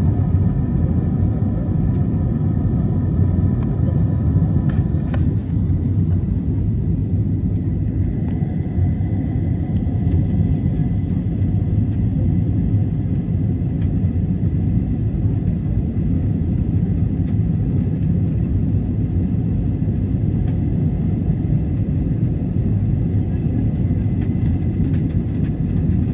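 Airliner cabin noise: a steady low rumble of engines and airflow, with faint high tones above it that change about five seconds in.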